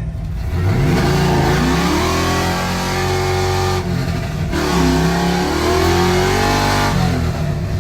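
Race truck's engine revved twice, each rev held high for a few seconds before dropping back toward idle.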